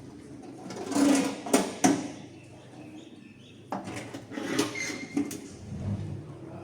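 Rustling and clattering in two bouts, with a couple of sharp knocks in the first.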